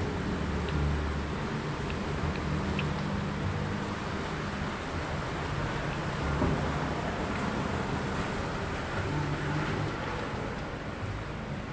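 Steady outdoor background rumble with a low hum that rises and falls, like distant traffic or wind on the microphone, and a few faint ticks.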